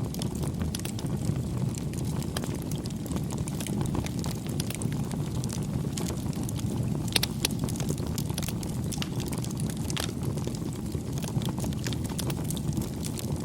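Wood fire crackling and popping over a steady low rush of burning flames, with a couple of louder pops about seven seconds in.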